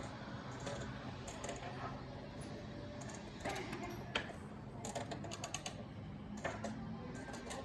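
Indoor store ambience: a steady low hum with scattered light clicks and taps, which come in small clusters in the second half.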